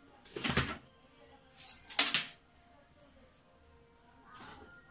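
Kitchen spoon and small dishes clinking and rattling while ingredients are measured out: a clatter about half a second in, another around two seconds in, and a fainter one near the end.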